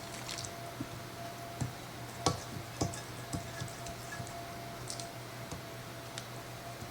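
Quiet kitchen handling: scattered light clicks and two sharper knocks a little over two seconds in, over a steady low electrical hum.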